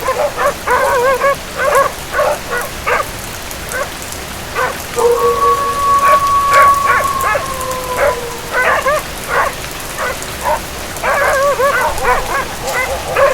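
Steady rain with a dog barking repeatedly in quick volleys. About five seconds in, a long held cry lasts some three seconds and drops slightly in pitch at its end, while the barking goes on.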